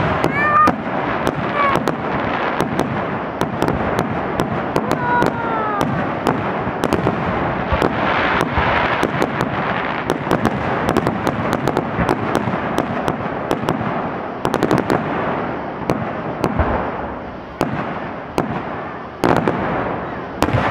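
Aerial fireworks display: shells bursting in rapid, overlapping succession, many sharp bangs over a continuous crackle, with a single louder bang near the end.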